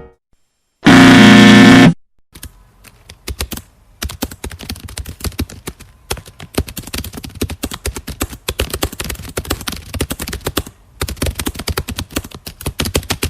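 A loud, harsh buzzer sounds for about a second. It is followed by fast typing on a computer keyboard: rapid, irregular key clicks with a few short pauses.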